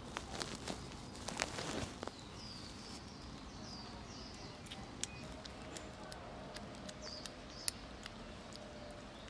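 Kittens eating: a quick run of small wet clicks and smacks in the first two seconds, then scattered clicks, with short high falling chirps repeating in the background.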